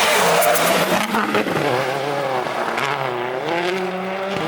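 Rally car engine at full throttle as the car passes close, its pitch rising and falling as it shifts gears and lifts, with a loud rush of tyre and engine noise as it comes by at the start.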